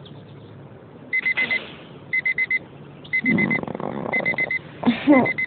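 Digital alarm clock beeping in groups of four quick beeps at one high pitch, a group each second. A sleepy voice sounds briefly near the end.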